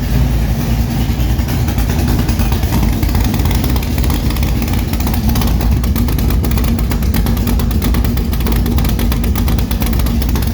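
Chevrolet 454 big-block V8, bored .030 over, running steadily while it warms up from a cold start.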